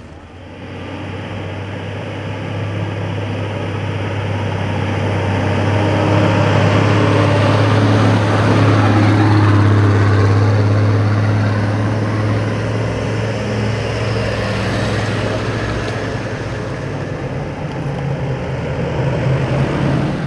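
Mitsubishi 4x4 engine running as the vehicle drives up a dirt track, a steady low drone that grows louder toward the middle and then eases.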